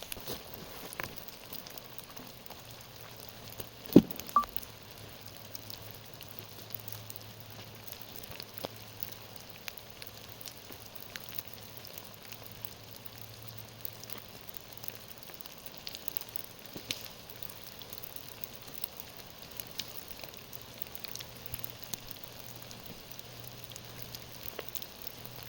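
Rain pattering steadily, with many small sharp drop ticks. There is a single loud knock about four seconds in, under a faint low hum.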